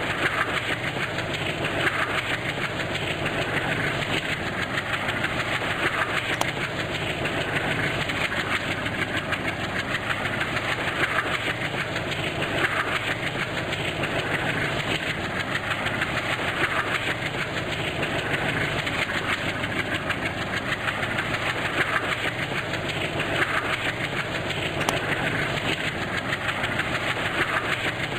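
Steady running noise of a diesel-hauled passenger train, an even mechanical drone with a faint swell about every two seconds.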